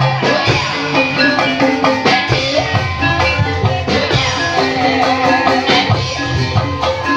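Javanese gamelan music accompanying an ebeg dance: struck metal keyed instruments play a busy run of melodic notes over drum strokes.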